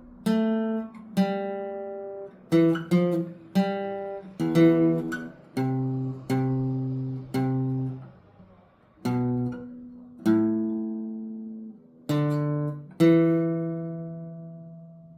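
Steel-string acoustic guitar playing a slow melody in single plucked notes and chords, each ringing and fading, ending on a long held note that dies away.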